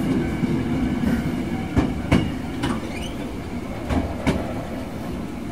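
Hankyu 6300 series train running, heard inside the passenger car: a steady rumble of wheels on rail with faint steady tones above it. Twice, about two seconds apart, the wheels clack in a quick pair over rail joints.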